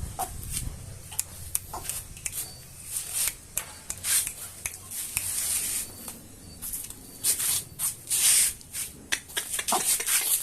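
Scuffling and rustling of a white-breasted waterhen and a chicken in a tussle: an irregular run of sharp clicks and short hissing, flapping-like bursts.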